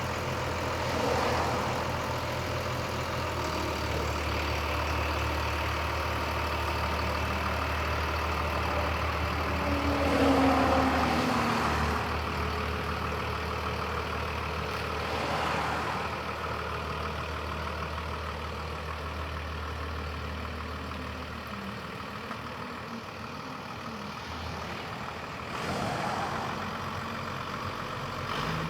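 1999 Freightliner box truck's engine idling steadily, with a few brief swells in sound; the loudest, about ten seconds in, falls in pitch as it dies away.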